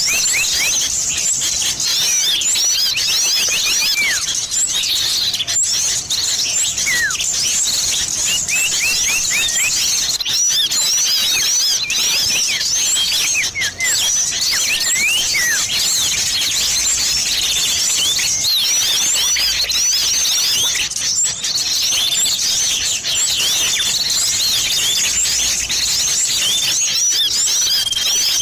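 Dense, continuous chorus of many small birds chirping and whistling with quick rising and falling notes: a bird-trapping lure recording combining sirtu and cipoh (common iora) calls.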